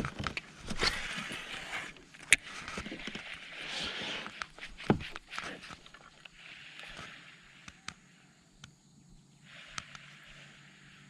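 Scattered clicks and knocks with stretches of rustling noise from tackle and hull handling on a fishing kayak: one sharp click about two seconds in and a dull knock about five seconds in.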